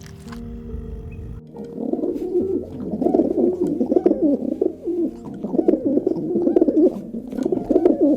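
Pigeons cooing, a continuous bubbling, warbling run of coos starting about a second and a half in, with short breaks.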